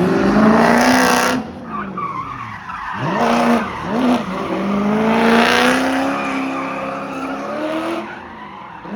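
Car engine revving hard with tyres squealing. The revs drop about a second and a half in, blip up twice quickly, then hold high for several seconds before easing off near the end.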